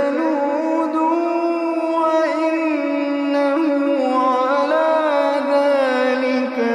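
A single voice chanting Quran recitation in a melodic, drawn-out style, holding long notes that bend and glide in pitch without pause.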